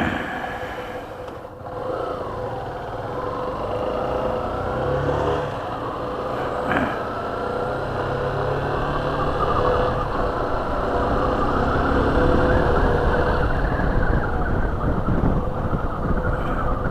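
Yamaha motorcycle engine running under way, its pitch slowly rising as it accelerates, with road and wind noise growing louder.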